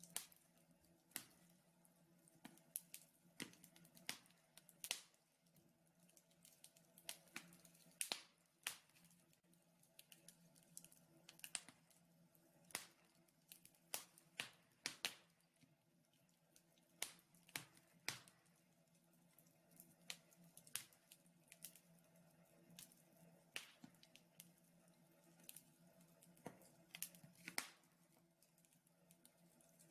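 Wood logs burning in a fireplace, crackling with irregular sharp pops and snaps, one to several every second.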